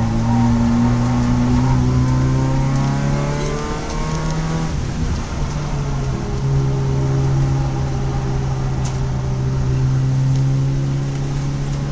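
Engine of a stripped-out Citroën Saxo track car, heard from inside the cabin, running hard under load. Its pitch shifts and briefly breaks about four to five seconds in, then holds steady.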